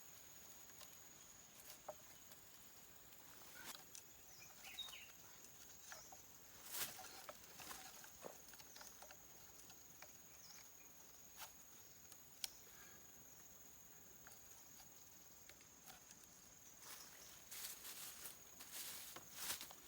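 Near silence: a steady thin high-pitched tone, with scattered soft clicks and rustles that grow denser near the end.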